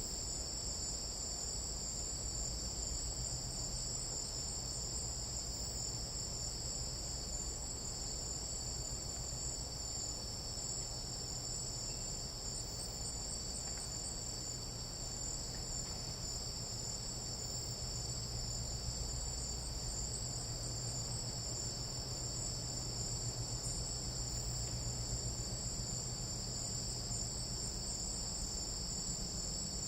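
Tropical jungle night insects in a dense, unbroken chorus: a steady high-pitched shrill at two pitches, over a low rumble.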